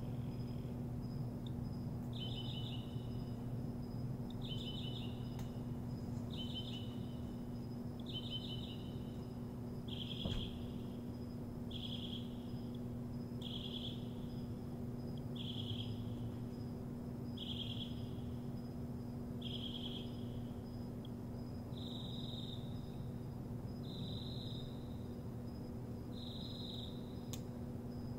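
A songbird singing, repeating one short high phrase about every two seconds, some fourteen times; the phrase changes form about ten seconds in and again near the end.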